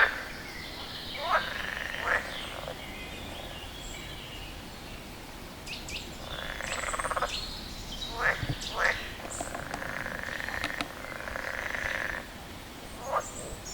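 A frog calling: short, sharp croaks that sweep up in pitch, repeated at uneven intervals, about seven in all. Under them runs a steady higher trilling and chirping.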